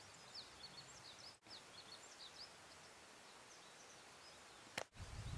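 Near silence with faint, quick high chirps of small songbirds scattered through it. A sharp click comes just before the end, followed by a low rumble.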